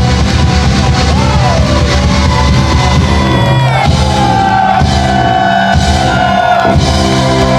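Live rock band playing loud, with a singer holding long notes over the band.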